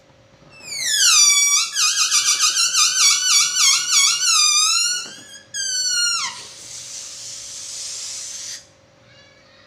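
Air let out of a balloon through its stretched neck: a high squeal that drops in pitch, then warbles up and down two or three times a second, squeals again briefly, and ends in a hiss of rushing air that stops suddenly.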